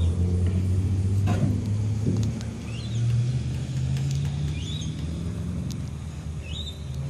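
A motor vehicle engine running, its low hum shifting up and down in pitch, with a small bird chirping a few times over it.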